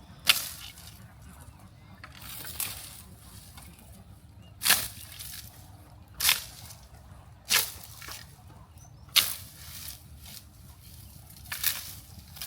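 A series of about seven sharp knocks or strikes, one every one and a half to two seconds, some louder than others.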